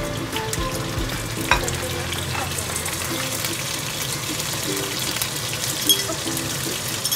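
Chopped garlic and red chillies sizzling and crackling in hot oil in a wok as they are stirred, with a few sharper clicks along the way.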